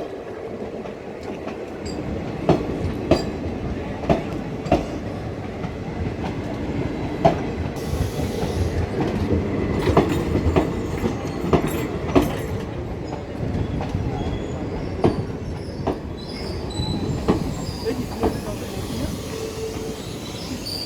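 Passenger train rolling, its wheels clicking over rail joints roughly every half second to second above a steady rumble, with faint wheel squeal now and then.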